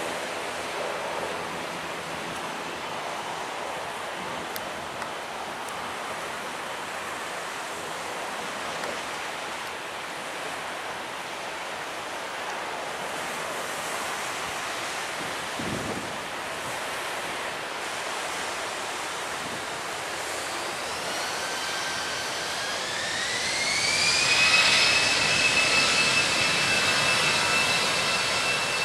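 Steady surf with wind. About two-thirds of the way in, a jet airliner's engines come in with a high whine that rises in pitch, then holds a steady tone as the noise grows louder.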